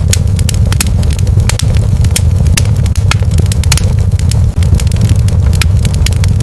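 Wood fire crackling, with many sharp irregular pops and snaps every second over a steady low rumble.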